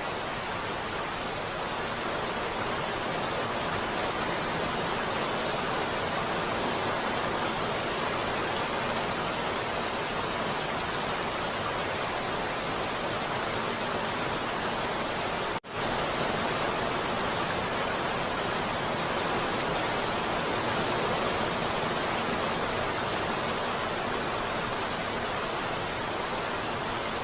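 Heavy rain falling steadily, an even dense hiss, broken once by a split-second dropout a little over halfway through.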